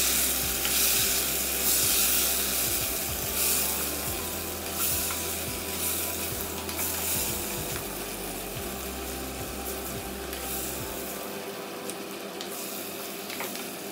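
Beef stir fry with snow peas, baby corn and mushrooms sizzling in a nonstick pot as a spatula stirs it; the sizzle is loudest in the first few seconds and gradually dies down.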